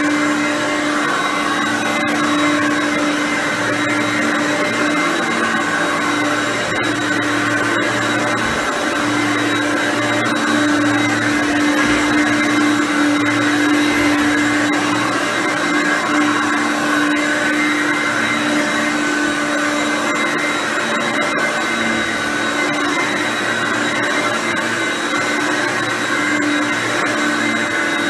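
Hoover Concept One upright vacuum cleaner (model U4219) running steadily while vacuuming, its motor hum holding a steady pitch.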